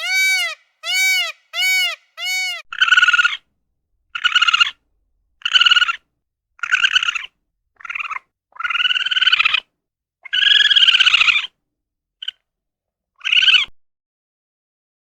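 A run of animal calls: four short, arched, pitched calls one after another, then about nine harsher calls of varying length with gaps between them.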